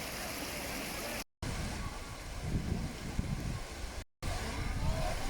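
Waterfall water rushing over rock, a steady hiss of falling water, broken by two brief dropouts where the footage is cut; after the first cut a heavier, uneven low rumble joins it.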